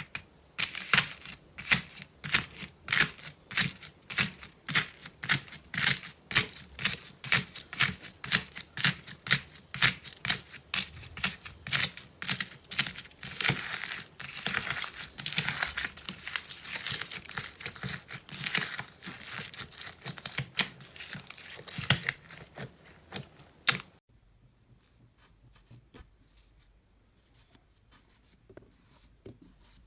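Slime being squeezed and pressed by hand, crackling and popping in repeated strokes about two a second, which stop about three quarters of the way through, leaving only faint handling sounds.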